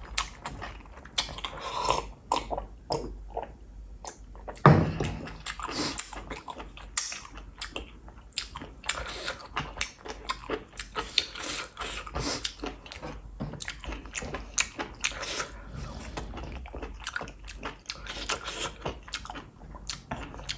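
Close-miked wet chewing and lip smacking while eating sauce-coated enoki and oyster mushrooms: a steady run of soft, irregular clicks and squelches, with one louder one about five seconds in.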